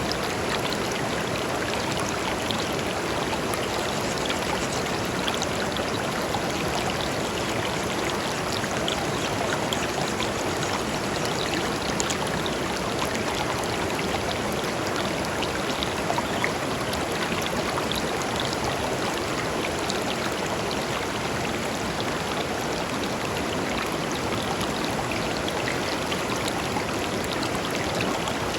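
Shallow river flowing over and between stones, a steady rushing babble with fine splashes and droplet ticks.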